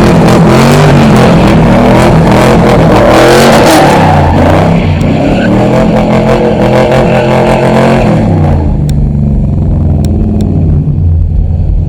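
A performance car engine revving hard through its exhaust, its pitch stepping up and down, under a loud hiss. About two-thirds of the way through the hiss drops away and the engine runs on lower, with a few sharp clicks.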